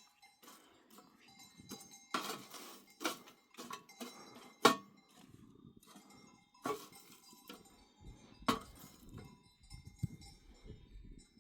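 Sheep bells clanking irregularly as the flock moves, each knock leaving a short ringing tone, the loudest strike about halfway through.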